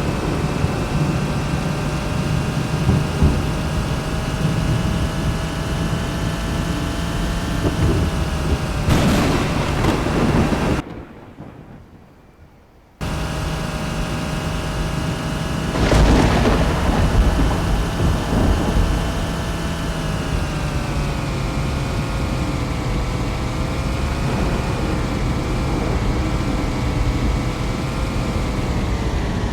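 Thunderstorm: steady rain with two cracks of thunder rumbling off, about 9 and 16 seconds in, over a steady hum. The sound drops out briefly in the middle.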